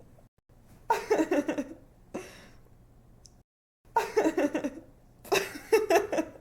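A young woman laughing in three short bursts of about a second each, separated by brief pauses.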